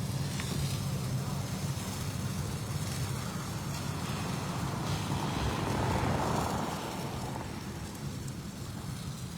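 Steady low rumble of an idling vehicle engine, with a rushing noise that swells about five seconds in and fades by about seven seconds.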